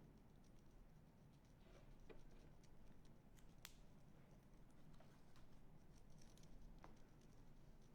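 Near silence: a low room hum with a few faint, scattered clicks and taps of small objects being handled.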